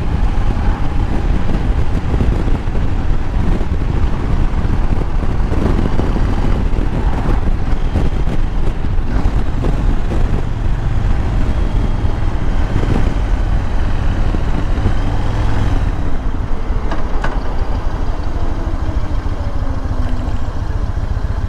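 Motorcycle engine running under way, with wind rushing over the microphone; the engine note falls off late on as the bike slows.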